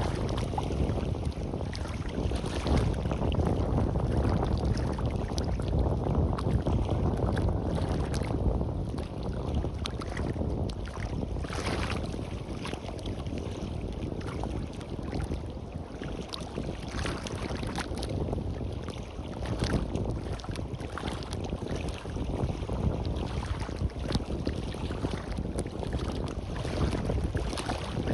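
Surf washing on a beach, swelling and easing every few seconds, with wind buffeting the microphone as a steady low rumble.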